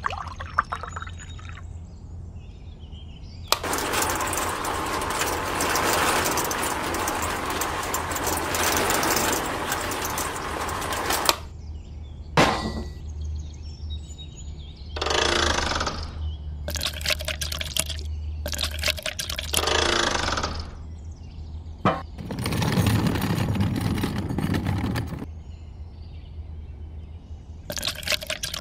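Water poured from a small toy bucket into the drum of a miniature cement mixer: one long steady pour lasting several seconds, followed by several shorter bursts of pouring and sloshing over a steady low hum.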